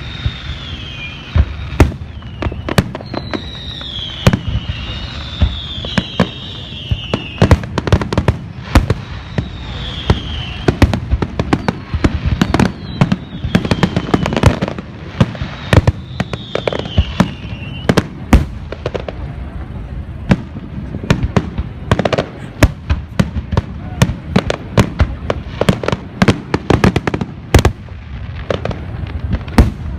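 Fireworks display: sharp bangs go off one after another, often several a second, over a constant rumble. A few high falling tones come and go in the first half.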